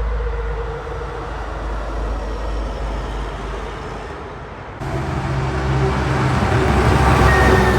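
Roadside traffic noise with a steady low rumble. About two-thirds of the way in it cuts abruptly to a truck approaching, its engine drone growing louder toward the end with a faint falling whine.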